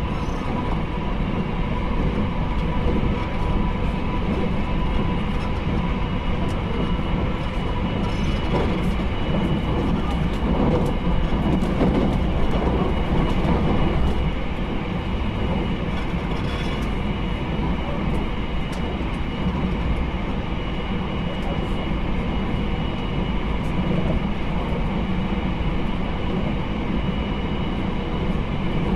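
Running noise inside the passenger cabin of a JR Hokkaido 789 series 1000 subseries electric train under way. There is a steady rumble of wheels on rail with a few constant tones over it and occasional faint clicks, a little louder in the first half.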